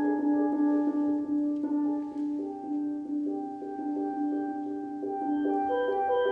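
Steel drum band playing a slow, soft melody over a held low note, the notes rolled with quick repeated strokes. The music eases off in the middle and builds again near the end.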